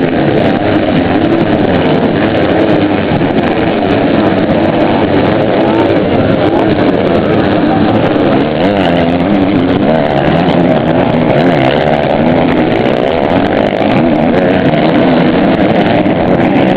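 Motocross motorcycle engines running hard at high revs, the pitch wavering up and down without a break as the throttle opens and closes.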